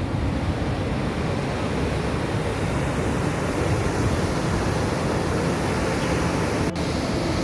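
Steady roar of a large waterfall, the Vishav river's Aharbal Falls, water crashing down onto rocks.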